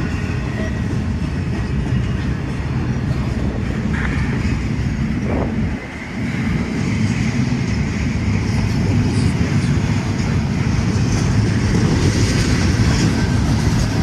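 Freight train rolling past at close range: a steady rumble of railcars on the track, briefly dipping about six seconds in.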